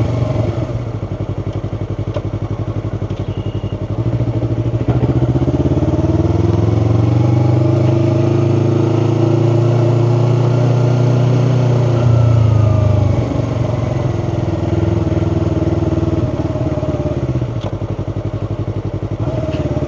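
2018 Yamaha R3's parallel-twin engine pulling at low revs under a learner's light throttle. The note is lower for the first few seconds, then rises gently to a peak about twelve seconds in, eases off a second later, and drops lower again near the end.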